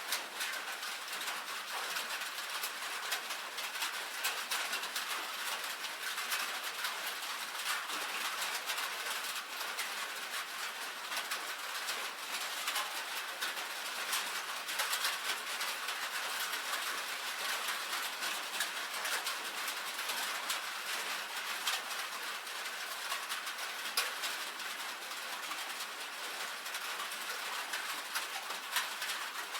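Steady rain falling on a tin roof: a dense, even mass of small drop taps over a hiss.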